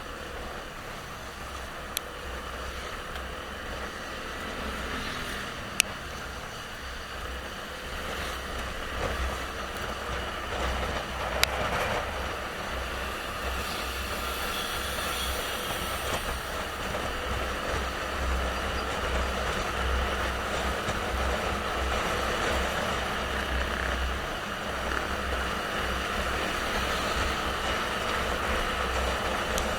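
Motorcycle on the move: wind buffeting the microphone over steady engine and road noise, growing slowly louder. Three short sharp clicks stand out along the way.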